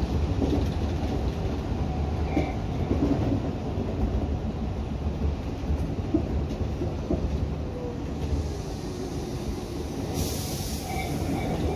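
Tobu Urban Park Line local electric train running, heard from inside the driver's cab: a steady rumble of wheels on rail, with a faint whine falling in pitch in the middle and a short hiss near the end.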